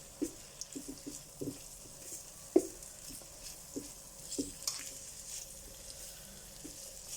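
Chopped onion sizzling in olive oil in a pan as it caramelizes, with a utensil stirring it and knocking against the pan several times; the loudest knock comes about two and a half seconds in.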